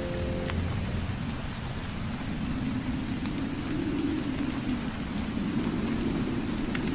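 Steady rain with a low rolling rumble of distant thunder swelling through the middle, and a few faint crackles.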